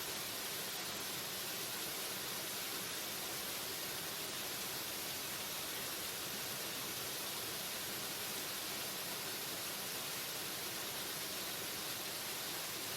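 Waterfall: a steady, unbroken rush of falling water, heavy in hiss.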